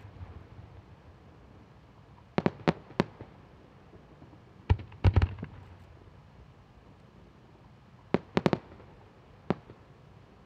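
Aerial firework shells bursting in groups of sharp bangs: a quick run of about four a little over two seconds in, the loudest cluster about five seconds in with a low rumble after it, another cluster near eight seconds, and one lone bang near the end.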